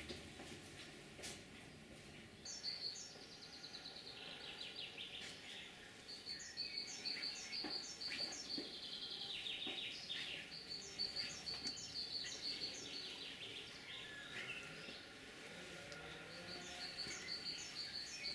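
Birds singing in bursts of quick, repeated high chirps every few seconds, over a faint steady background hiss.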